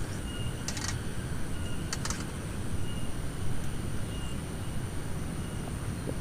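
Steady low rumble of wind and rain, with two short clusters of clicks about one and two seconds in.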